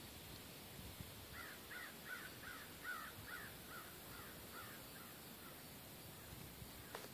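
A bird calling: a quick run of about a dozen repeated calls, roughly two and a half a second, that fade out after about four seconds.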